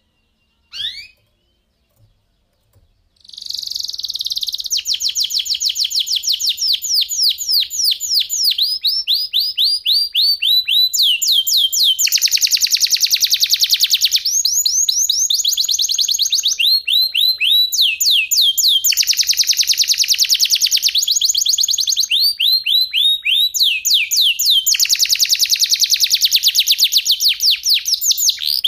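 Domestic canary singing: a short rising chirp under a second in, then from about 3 s a long unbroken song of rapid trills, runs of fast falling notes alternating with dense buzzing rolls.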